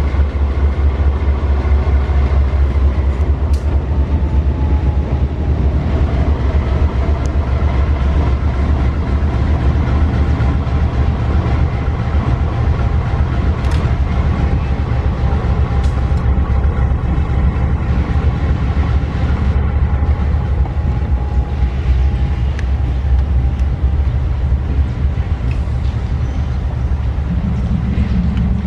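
GE ES44ACi diesel locomotives running with a heavy, steady low rumble, faint steady tones above it; the rumble grows fuller near the end.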